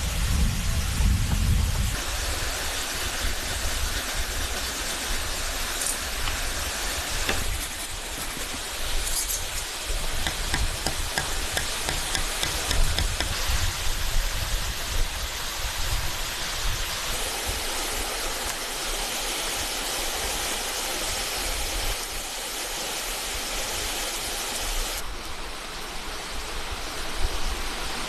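Steady rush of a forest creek's running water, its tone changing abruptly a few times.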